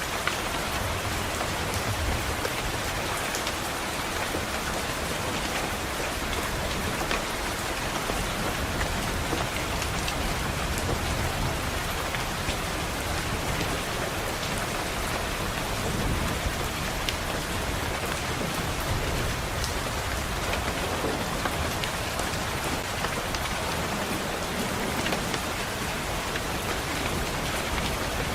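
Steady rain pattering on window glass, a dense even hiss with individual drops ticking. A low rumble of distant thunder swells up now and then.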